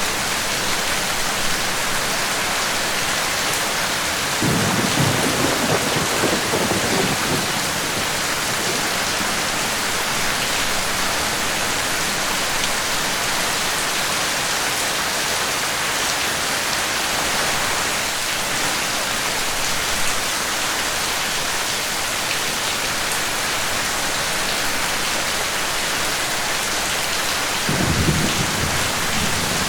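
Steady rain falling, with a rumble of thunder about five seconds in and another near the end.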